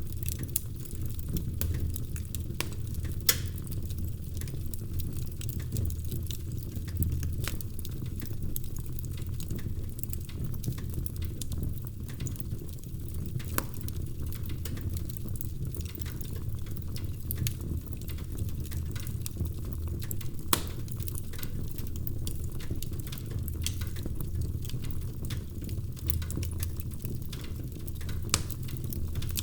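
Wood fire crackling in a fireplace: a steady low rumble of the flames with frequent sharp snaps and pops, a few of them louder.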